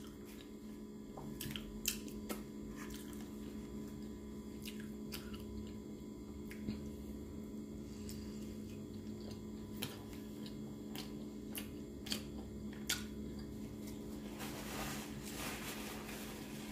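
Close-up eating sounds: biting into and chewing a soft flour-tortilla burrito, with scattered small wet mouth clicks. Near the end, a paper napkin rustles as hands are wiped. A steady low hum runs underneath.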